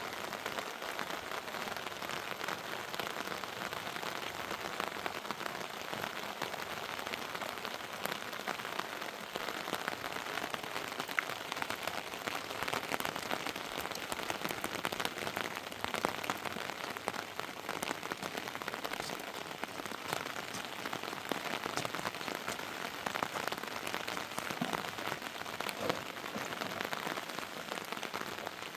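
Heavy rain falling steadily: an even hiss dotted with the sharp ticks of individual drops.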